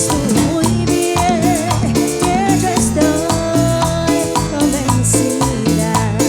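A live band playing Latin dance music with a steady, even beat, shakers and a wavering melodic lead line.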